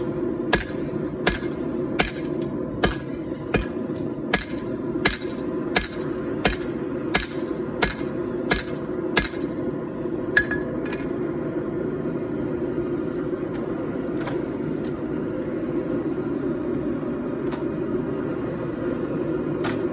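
Hand hammer forging hot 4140 steel: about fourteen even blows, a little under one and a half a second, each with a bright metallic ring, stopping about ten seconds in. A steady low roar runs underneath.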